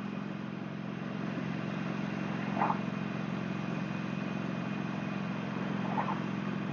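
Motorcycle engine running at a steady cruise, an even drone with no revving, picked up by an earphone microphone on the rider.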